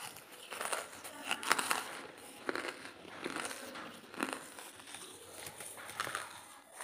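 Close-miked chewing of dry charcoal lumps: sharp, gritty crunches in separate bursts roughly once a second, loudest about one and a half seconds in, with a longer pause before a last crunch near the end.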